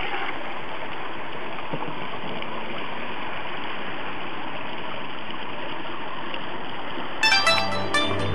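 A steady, even rushing noise with no pitch to it; music comes in about seven seconds in.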